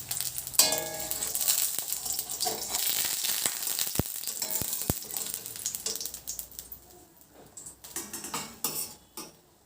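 Food sizzling as it fries in hot oil in a pan, with a ringing metallic clink about half a second in and a few sharp knocks around four and five seconds. The sizzling fades over the last few seconds.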